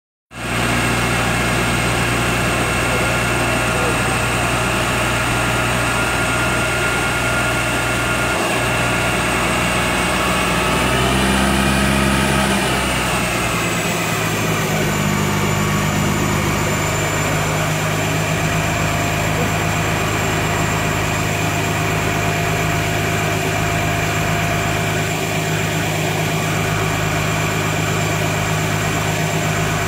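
Ford Focus 1.8 TDCi four-cylinder turbodiesel running steadily on a rolling-road dyno, a constant drone of engine and machinery. The pitch lifts briefly about eleven seconds in, then settles back to a steady note.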